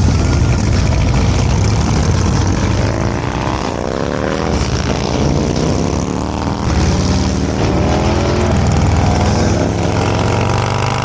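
Motorcycle engine pulling hard, its pitch climbing and dropping back several times as it shifts up through the gears, over steady wind rush.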